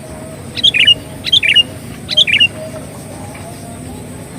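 Sooty-headed bulbul (kutilang) song: three short, loud phrases of quick chirping notes in quick succession in the first half, used as a lure call.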